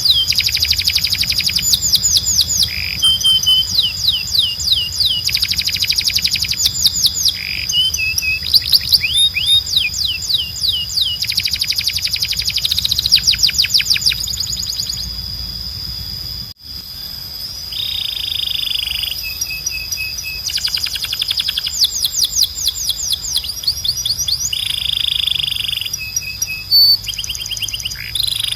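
Domestic canary singing a long song of fast trills, each phrase a rapid run of repeated sweeping notes lasting a second or two before switching to another, over a steady high tone. The sound drops out briefly about halfway through.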